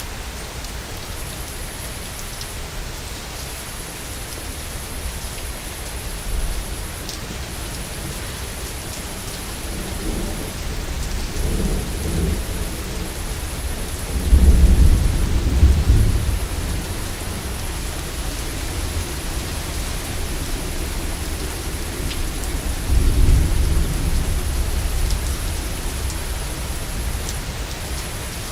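Steady rain falling with rolling thunder: deep rumbles build from about a third of the way in, loudest just past halfway, with a second rumble swelling about four-fifths of the way through.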